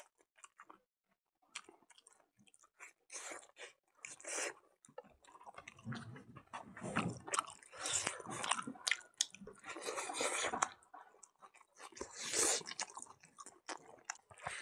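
Close-up chewing of a mouthful of rice mixed with pig blood and pork fat, eaten by hand. A few faint wet clicks at first, then steady, louder chewing from about five seconds in.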